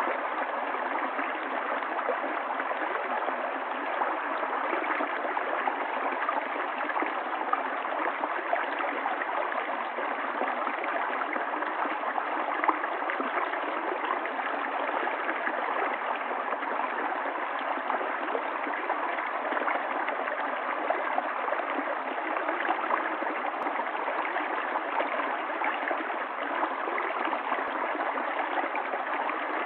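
Stream water running steadily, gurgling and trickling without pause.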